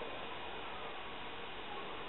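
Steady hiss of room tone and recording noise, with a faint thin steady tone running through it.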